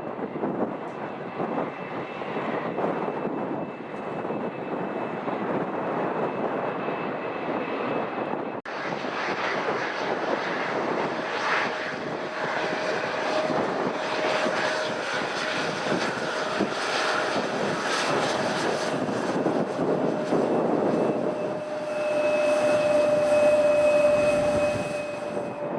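Airliner engines running on the airfield: a steady rushing noise with a high, steady whine over it. About eight seconds in the sound changes abruptly, and from then a lower whine builds up, loudest near the end.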